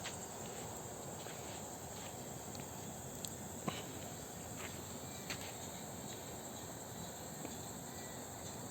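Crickets chirring steadily in a high, even drone, with a few faint clicks about three and a half and five seconds in.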